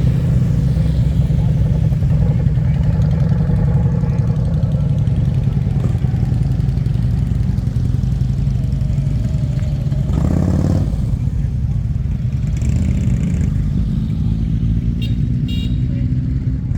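Motorcycle engines running steadily close by, with a brief louder surge about ten seconds in as one bike revs or passes.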